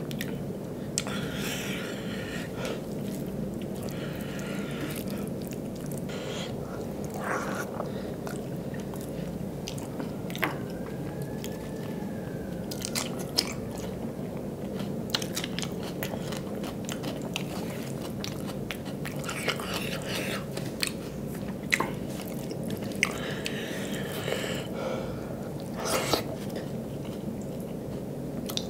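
Close-up mouth sounds of a person eating rice and dal by hand: chewing with scattered wet clicks and lip smacks, over a steady low background hiss.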